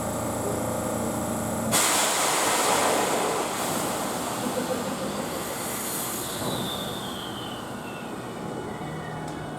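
JR Shikoku 8000 series electric express train departing: a steady hum, then about two seconds in a sudden loud rush of wheel and running noise as the cars move past, with a whine that falls in pitch.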